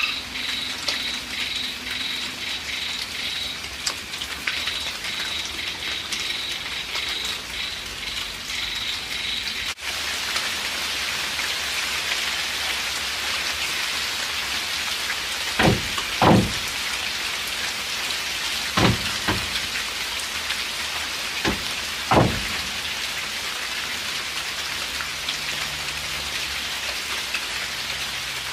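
Light drizzle falling steadily. For the first ten seconds a high pulsing chirr runs over it and stops at a sudden break. Several short dull knocks come in the middle, in two pairs and a single.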